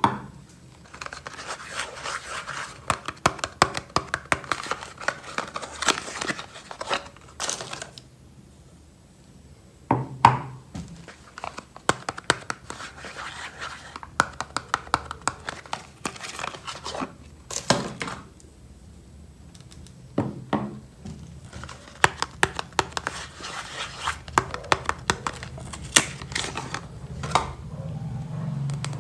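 Soap wrappers being crinkled and torn open by hand, in three long stretches of dense crackling with short pauses between.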